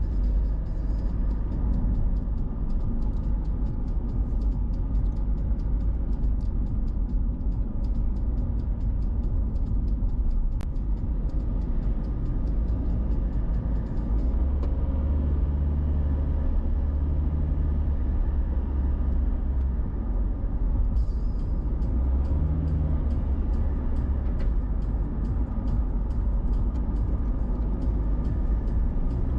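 Car on the move: a steady low rumble of engine and road noise, heavier for a few seconds in the middle, with faint rapid ticking above it.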